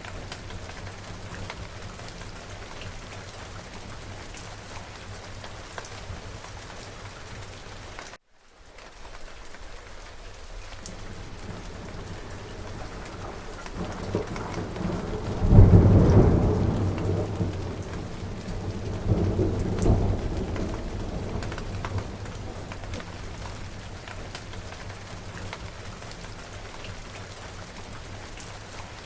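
Steady rain falling, with a rolling thunderclap about halfway through that swells up, peaks, rumbles again a few seconds later and fades away. Early on the rain cuts out completely for a split second.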